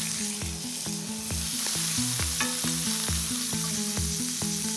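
Chunky pancetta frying in hot olive oil in a pan, a steady sizzle. Low notes of background music run underneath at a steady beat.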